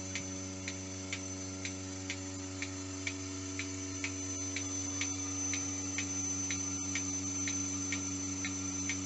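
Vacuum milking machine running: a steady pump hum with the pulsator clicking evenly about twice a second.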